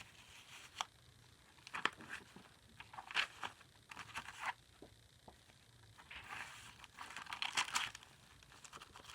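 Paper rustling and crinkling as journal pages, tags and cards are handled: a few short rustles spread through, then a longer stretch of crinkling near the end.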